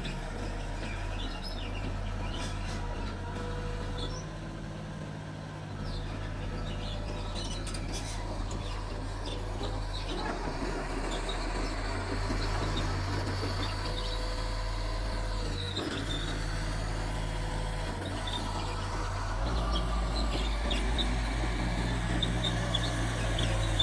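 Mitsubishi bulldozer's diesel engine running under changing load while working, growing louder near the end, with faint high chirps over it.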